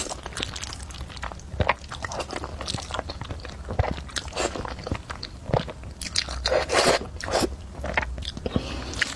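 Close-miked chewing and biting while eating sticky spicy fire-chicken noodles: irregular crisp mouth clicks and wet smacks.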